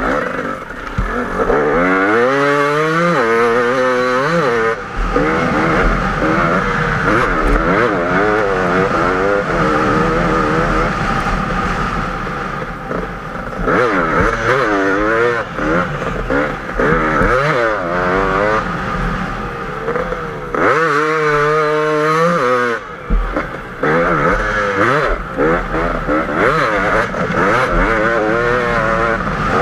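KTM 250 EXC two-stroke enduro motorcycle engine under hard riding, its revs rising and falling again and again as the throttle is worked, with runs of quick rising sweeps a couple of seconds in, around the middle and again about 21 seconds in.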